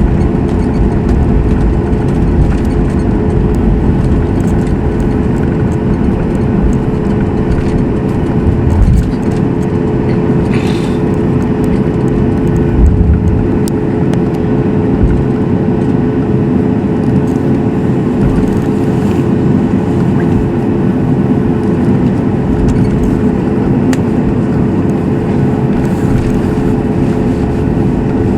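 Cabin noise inside a Boeing 737 MAX 8: its CFM LEAP-1B engines run steadily at low power with a constant hum and low rumble, while the aircraft taxis after landing. A couple of low thumps come through partway in.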